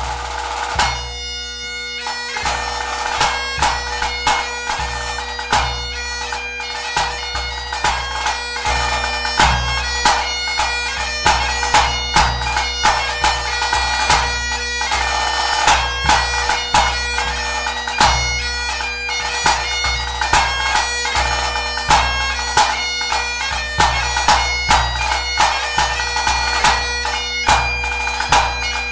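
Great Highland bagpipe playing a march, its drones holding a steady tone under the chanter melody, with bass drum beats accompanying the tune. A drum roll strikes in about a second in, and the bass drum then keeps a regular beat.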